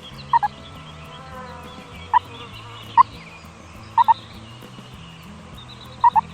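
Chickens calling in five short, loud clucks, three of them quick double notes, over faint background music and faint bird chirping.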